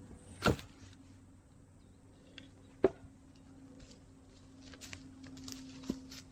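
Three sharp knocks, about two and a half seconds apart and the middle one the loudest, over a faint steady hum.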